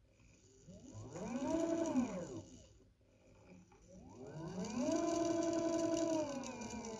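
Hoverboard hub motor whining as it speeds up and slows down twice: a short run-up and wind-down, then a longer one that holds a steady pitch for over a second before falling away. The motor runs smoothly and is in good working order.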